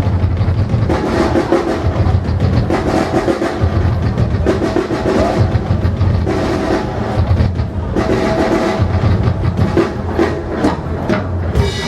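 A live percussion ensemble drumming, with deep drum strokes in a steady pulse.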